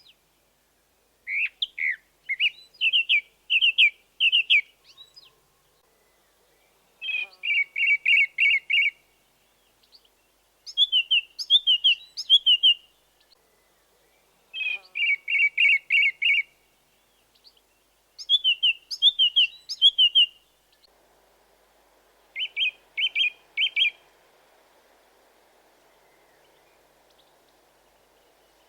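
A songbird singing short phrases of quick, repeated clear notes, each phrase different, about six phrases with pauses of a couple of seconds between them.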